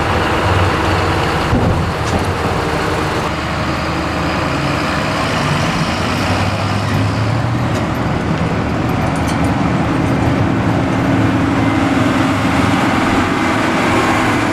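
Heavy diesel farm machinery running steadily under load, with a low engine hum, the sound changing abruptly a couple of times early on.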